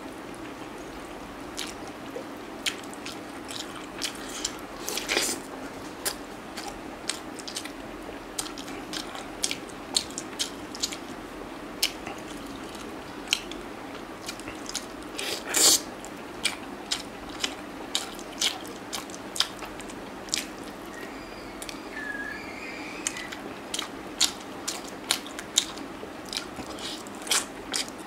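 A person chewing and biting chicken and rice eaten by hand, with many short, sharp wet mouth clicks and smacks throughout and a louder one about halfway through.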